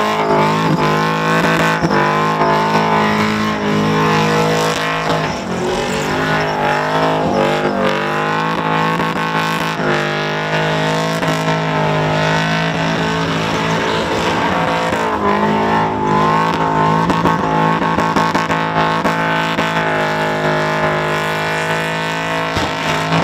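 Supercharged Holden Commodore ute's engine held at high revs during a burnout, rear tyres spinning in their own smoke. The engine note holds steady for long stretches and dips and climbs again a few times.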